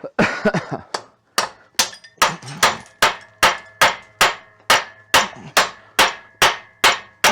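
A hammer beating on a seized air-cooled VW Beetle engine, about fifteen sharp metal blows at an even pace of roughly two and a half a second, each ringing briefly, starting a little over a second in. The blows are an attempt to knock loose parts that stay stuck fast.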